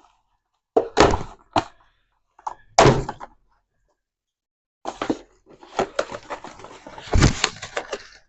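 Beehive kit parts and their packaging being unpacked: a few sharp knocks in the first three seconds, then about three seconds of continuous rustling and clattering.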